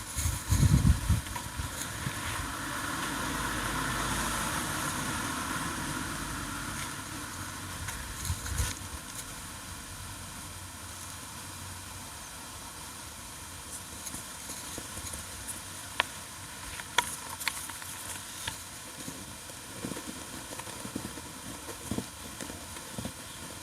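Handling sounds of a rubber patch being laid onto an inflatable dinghy's tube over tack-dry glue: a few soft thumps near the start and scattered light clicks and taps later on. A swell of rushing noise rises and fades a few seconds in.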